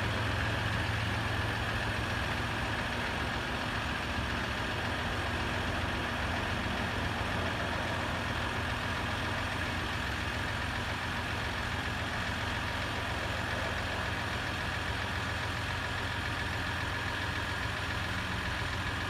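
Ram 1500 EcoDiesel's 3.0-litre turbodiesel V6 idling steadily.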